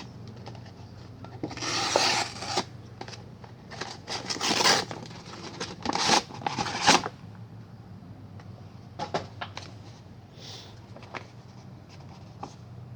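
A mailed package being opened by hand: cardboard and packaging scraped, rubbed and torn in three loud noisy bursts over the first seven seconds, followed by scattered clicks and softer rustles.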